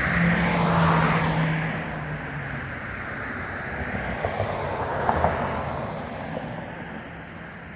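Jet airliner passing overhead: a broad rushing drone, loudest in the first two seconds, then slowly fading away.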